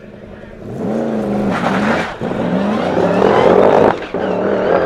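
Twin-turbo Audi V8 race car being driven hard, its engine note climbing and falling again and again, with short breaks in the sound about two and four seconds in.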